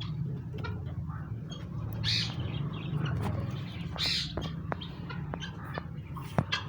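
Domestic poultry calling: two short harsh calls, about two and four seconds in, followed by a few sharp clicks, over a steady low hum.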